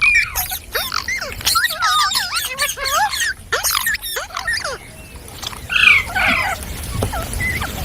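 Green parrots chattering: many quick squeaky chirps and whistled calls rising and falling in pitch, overlapping one another, with a brief lull just past the middle and a louder harsh squawk at about six seconds.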